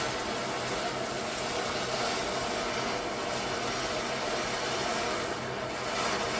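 Garden firework fountain burning, a steady rushing hiss of spraying sparks with no crackles or bangs.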